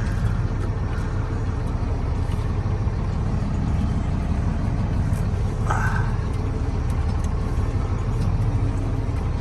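Semi-truck engine idling with a steady low rumble, and a short sharper noise about six seconds in.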